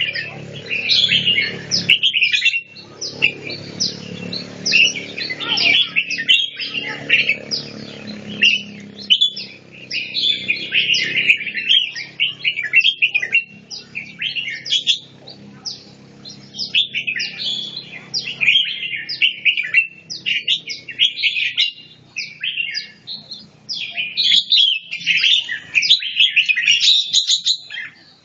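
Red-whiskered bulbul singing: short, quick warbled phrases repeated over and over with brief pauses between them. A faint low hum underneath fades out about nine seconds in.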